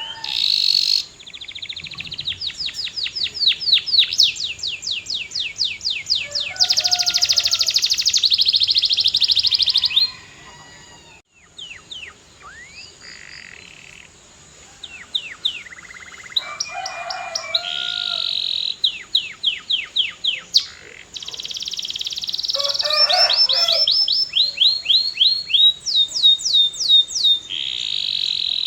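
Domestic canary singing: long rolling phrases of rapid repeated down-slurred notes and trills, changing from one tour to the next, with a short lull about ten seconds in before the song picks up again.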